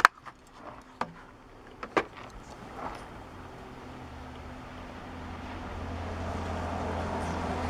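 A motor vehicle engine runs with a steady low hum that grows gradually louder over the last few seconds. Before it, three sharp clicks come about a second apart.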